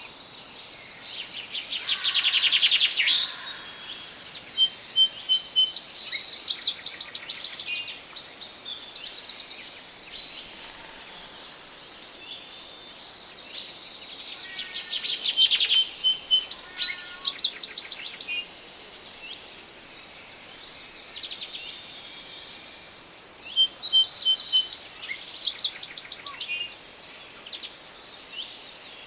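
Several songbirds singing and calling in a forest, with rapid trills and chirps overlapping, and louder bursts of song about two, fifteen and twenty-four seconds in over a faint steady hiss.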